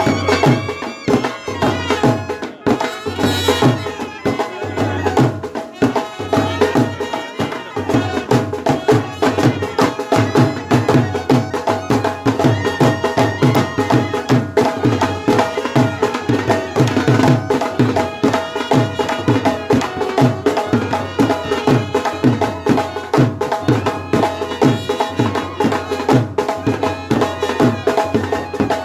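Brass band playing a melody over a fast, steady drum beat.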